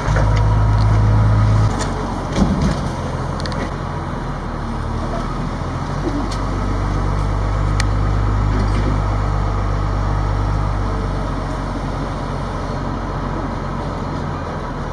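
A steady low mechanical drone, like a motor running, louder for about the first two seconds and then holding level, with a few faint clicks.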